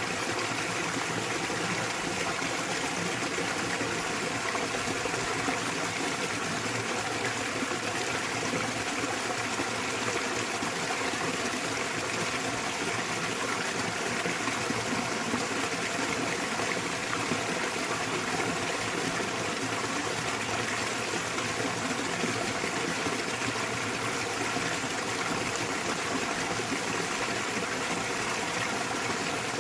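Small waterfall in a mountain stream, water pouring and splashing in a steady rush.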